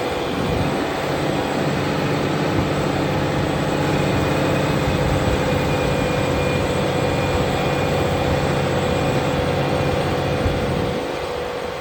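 Fendt tractor's diesel engine running steadily under load while ploughing, with a steady whine above the engine note; the sound fades near the end as the tractor moves away.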